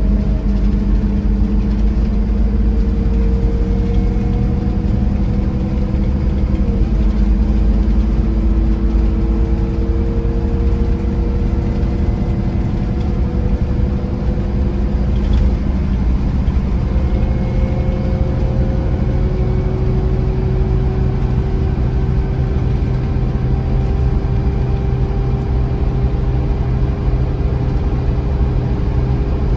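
Scania Irizar i4 coach's engine running steadily under way, its pitch slowly rising, with a brief drop in pitch about seven seconds in.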